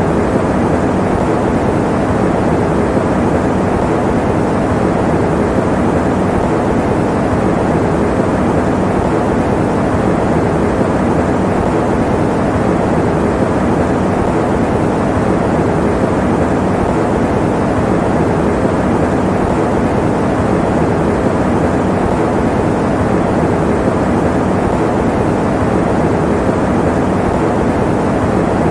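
Electric fan running steadily: an even, unchanging noise, mostly low and middle in pitch with little high hiss.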